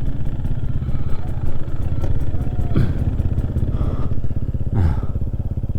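Trail motorcycle engine running steadily at low revs, its firing pulse even throughout, with a few brief gliding sounds over it around the middle and near the end.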